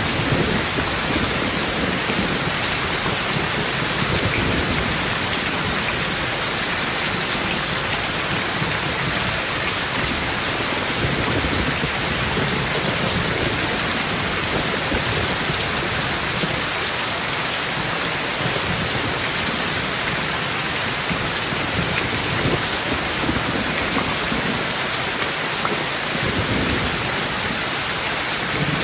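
Steady heavy rain falling, a dense even hiss, with low thunder rumbling at times underneath.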